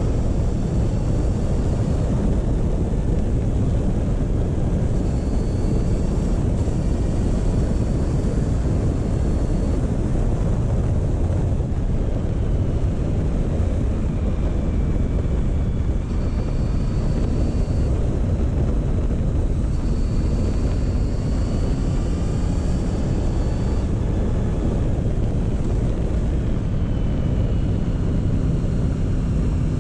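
Motorcycle engine running at a steady road pace with wind rushing over the microphone. A faint whine rises and falls as the revs change.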